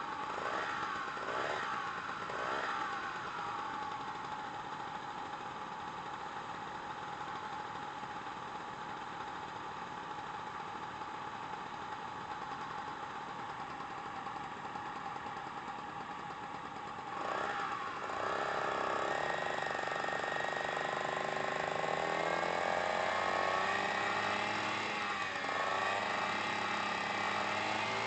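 Suzuki Address 110 scooter engine running at idle, with a few short throttle blips in the first seconds. About seventeen seconds in, the engine note changes and then rises slowly as the engine is revved up toward the end.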